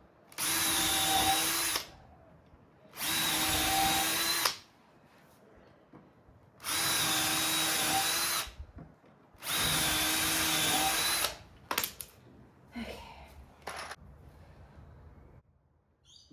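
Power drill running in four bursts of about a second and a half each, each at a steady pitch: driving screws into the timber of a workbench frame. A few faint knocks follow near the end.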